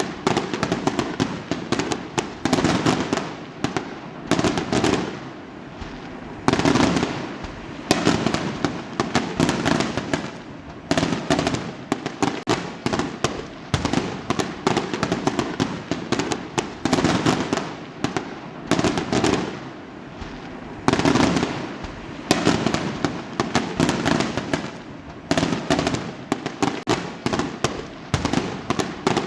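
Fireworks going off: a steady barrage of booming shell bursts and crackling, loudest bangs coming every few seconds, the cracks overlapping so closely that there is hardly a gap.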